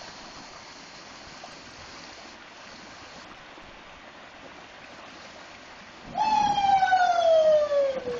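Steady rush of river water, then about six seconds in a loud, long drawn-out cry that falls steadily in pitch for about two seconds.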